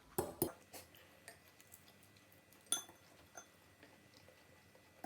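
Scattered light clicks and clinks of eating utensils against a bowl while instant noodles are eaten. The sharpest clink, with a brief ring, comes about two and a half seconds in.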